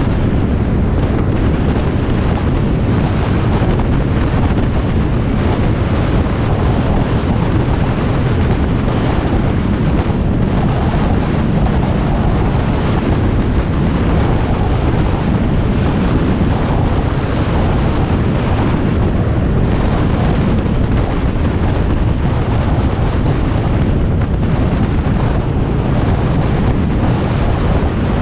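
Harley-Davidson Sportster Iron 1200 motorcycle riding at steady highway speed: loud, constant wind rushing over the microphone, with the deep drone of the bike and road beneath it.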